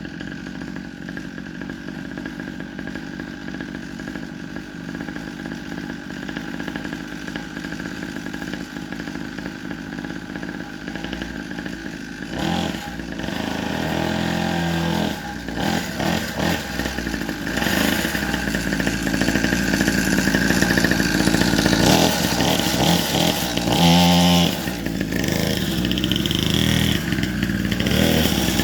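Dirt bike engine running steadily, then revving up and down with a changing pitch and growing louder from about halfway through, as the bike is ridden.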